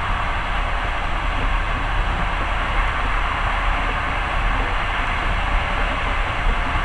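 Passenger train running at speed: a steady low rumble of wheels on rails with an even rushing noise, heard from inside the carriage.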